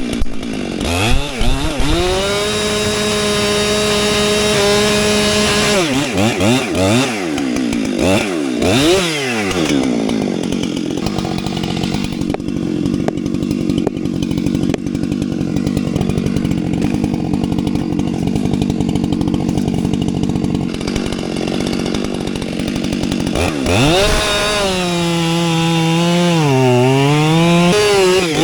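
Two-stroke chainsaw running at high revs, its pitch dipping and rising several times, then holding a lower, steady note for about thirteen seconds as it cuts through a downed tree, and wavering up and down again near the end.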